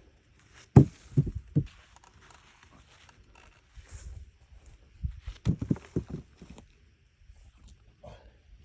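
Short dull thumps in two quick clusters, about a second in and again around five seconds in, with faint rustling between, from hands-on garden work starting the potato harvest.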